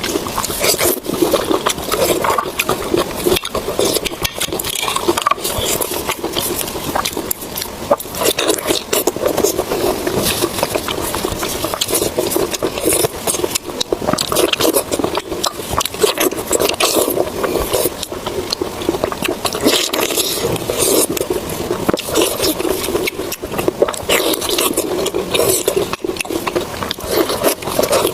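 Close-miked eating sounds: continuous chewing, with many small clicks and smacks.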